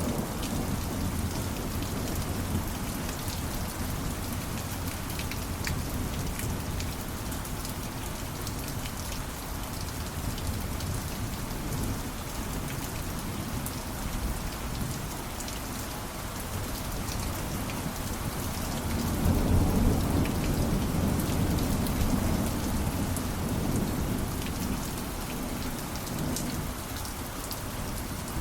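Steady heavy rain with a patter of drops, and a low roll of thunder that swells about two-thirds of the way through and fades over a few seconds.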